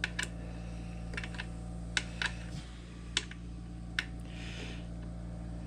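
Scattered light metallic clicks, about eight irregular ones, as a tool works the screws of a Framon key machine during adjustment, over a steady low hum.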